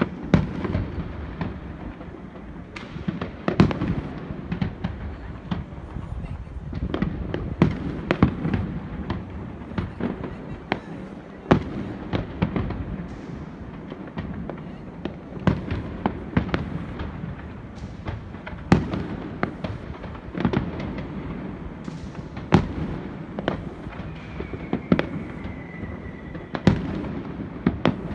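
New Year fireworks display: a dense, irregular run of sharp bangs and cracks over a continuous low rumble of booming shells. Near the end a faint whistle falls slightly in pitch.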